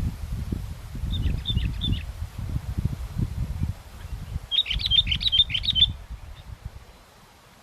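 Sooty-headed bulbul (kutilang) singing two short bursts of bubbly notes, the second louder and about a second and a half long, over wind buffeting the microphone that dies away near the end.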